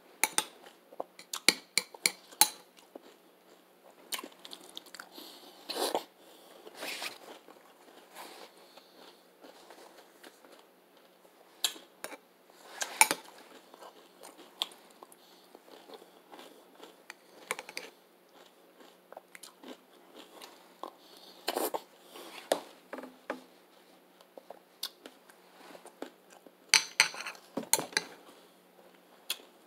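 Close-up chewing of crunchy Honey Bunches of Oats cereal with almonds: irregular crunches with pauses between mouthfuls, in quick runs about a second in and again near the end.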